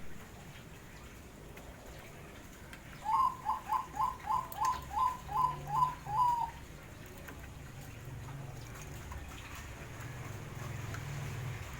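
Zebra doves (perkutut) calling. One bird gives a quick run of about ten short staccato notes, about three a second, starting around three seconds in. Fainter low cooing continues underneath.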